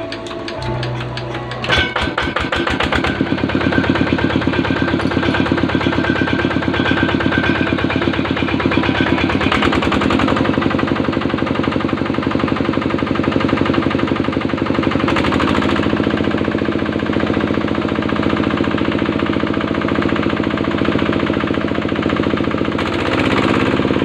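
Yanmar diesel engine catching about two seconds in, then running with a rapid, even knocking beat. Its speed shifts a few times along the way.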